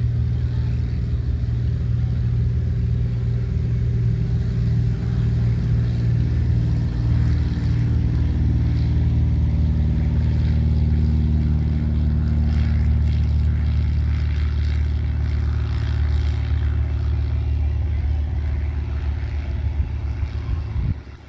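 An engine running steadily at constant speed, a loud, deep hum that stops abruptly near the end.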